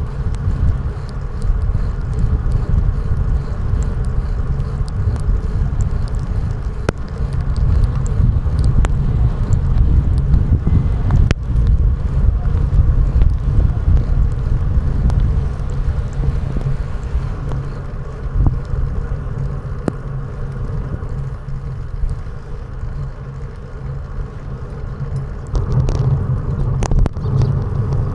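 Steady low road rumble of a ride, heard through an action camera's microphone with wind noise, and a hum that becomes steadier near the end.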